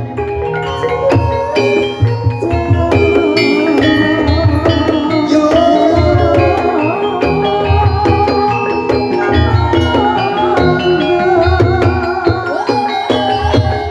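Gamelan music of the kind that accompanies ebeg: dense, quick struck metallophone or xylophone notes over regular deep drum and gong pulses, with a singer's wavering voice faintly in the mix.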